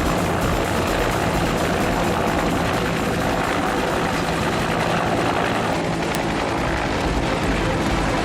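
Military helicopter flying, its rotor and turbine giving a steady, loud noise with a choppy low rumble.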